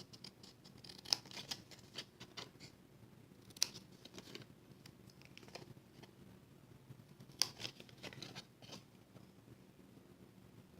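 Scissors snipping through cardstock, a few separate cuts with the strongest snips about a second in, at about three and a half seconds and at about seven and a half seconds.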